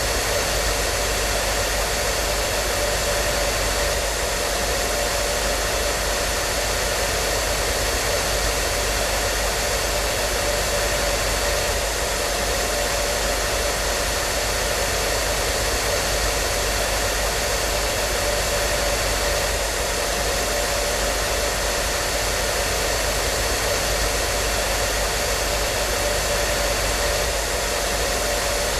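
Hair dryer running continuously: a steady, even rush of blown air with a faint constant motor hum and whine, unchanging throughout.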